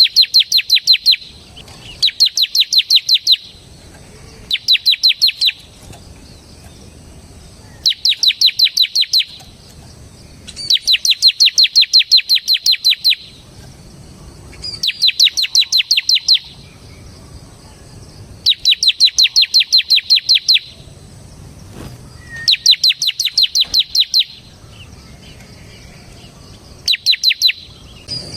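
Bar-winged prinia (ciblek semi) singing in its rapid rattling trill, the 'ngebren' song that keepers prize. About nine loud bursts of fast, evenly spaced high notes, each one to two and a half seconds long, follow each other with short pauses.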